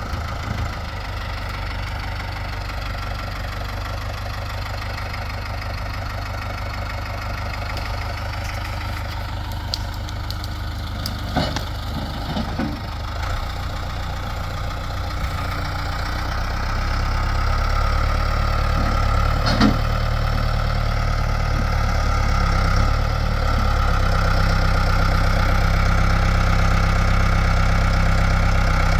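Backhoe engine running steadily, getting louder about two-thirds of the way through, with a few sharp knocks about midway.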